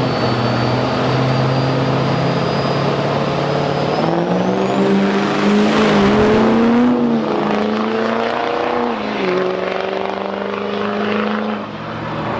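Turbo-diesel drag truck engine: a steady engine note, then about four seconds in it revs up under full throttle and a high turbo whistle rises with it. The engine pitch dips once around nine seconds and then holds steady.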